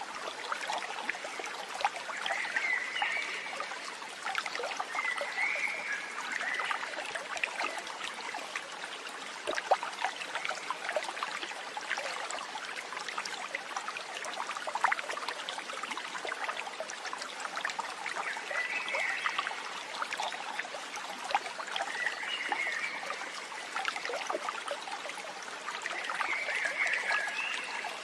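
Steady trickling, babbling water like a small stream, with short chirps near the same pitch five times.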